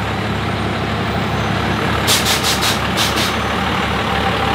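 Truck engines running in slow traffic, with a quick run of about six short, sharp air hisses about two seconds in, as a lifted truck's air suspension is switched.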